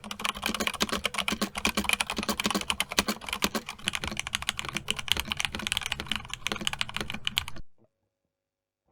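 Fast typing on a Razer BlackWidow V3 mechanical keyboard: a dense, unbroken run of key clicks that stops suddenly near the end.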